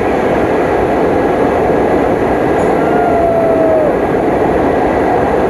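Passenger train running along the track with a steady, dense rumble and rattle. A thin, slightly falling tone sounds briefly about three seconds in.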